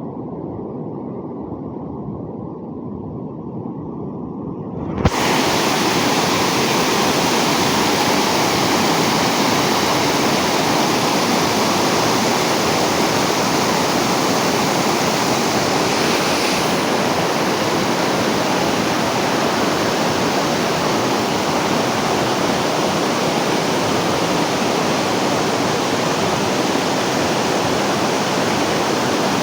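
Steady rushing of water, a dense even hiss. For the first five seconds it is dull and muffled; then, with a click, it switches abruptly to a full, bright rush that holds steady.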